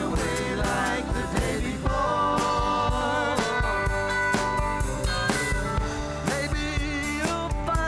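Band playing live: a singer's voice over sustained instrument notes and a regular drum-kit beat.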